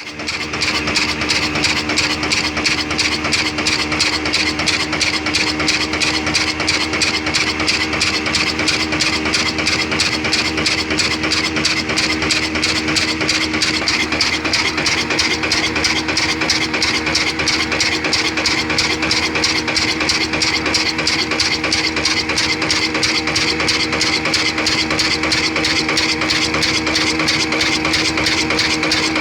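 Old black desi diesel engine running steadily with an even, rapid beat, along with a steady hum and hiss.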